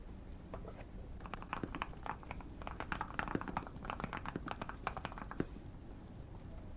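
Typing on a Keychron Q1 mechanical keyboard: a quick, uneven run of keystrokes that starts about a second in and stops a little past five seconds, over faint fireplace crackling.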